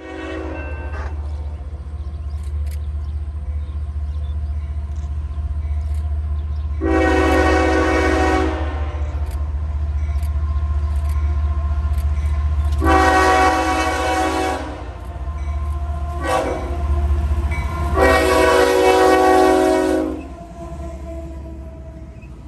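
Diesel freight locomotive rumbling past while its multi-chime air horn sounds long, long, short, long: the standard grade-crossing warning signal.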